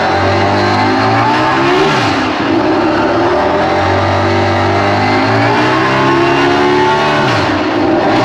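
Honda RC213V MotoGP bike's V4 engine being revved while stationary: it is held at steady revs for stretches, with quick rises and drops in pitch about two seconds in and near the end.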